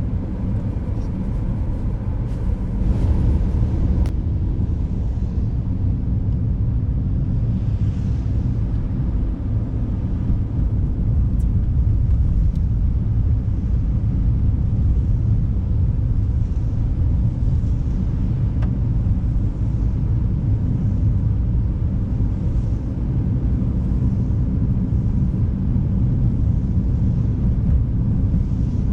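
A car being driven on a snowy, icy road: steady low rumble of engine and tyres, with a few faint clicks about three to four seconds in.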